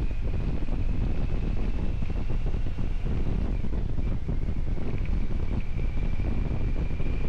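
Heavy wind rumble on the microphone over the steady running of a vehicle engine, with a thin, steady high whine throughout.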